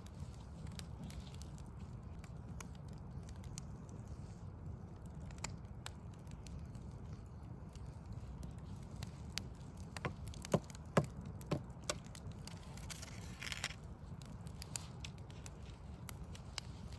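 Wood fire crackling: scattered small pops, then a run of sharp, loud pops about ten to twelve seconds in and a brief hiss just after, over a low steady rumble.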